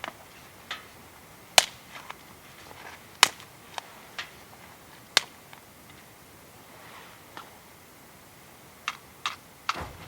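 Wood fire in a fire pit crackling, with sharp irregular pops and snaps a second or two apart and a quick cluster of them near the end.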